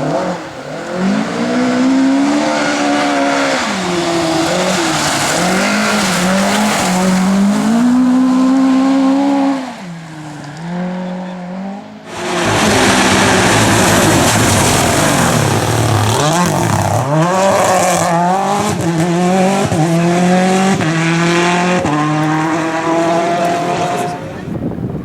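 Rally cars' engines at full throttle, the pitch climbing through the revs and dropping at each gear change or lift. One run fades out about ten seconds in, and another car's engine comes in abruptly at about twelve seconds.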